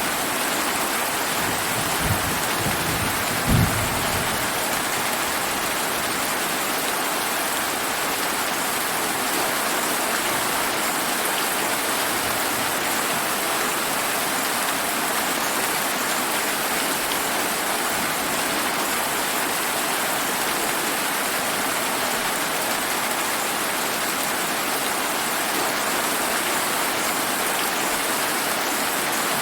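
Steady heavy rain pouring down, with two brief low thumps of thunder about two and three and a half seconds in, the second louder.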